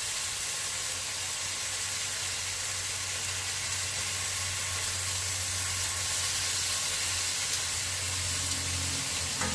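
Food frying in a pan, a steady sizzle, with a low steady hum underneath.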